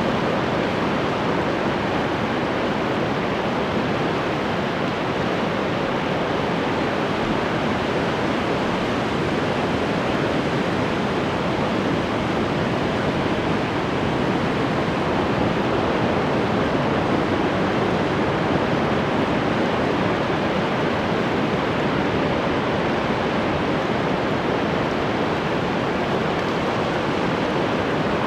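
Ocean waves breaking on the shore, heard as a steady, continuous wash of surf without distinct separate crashes.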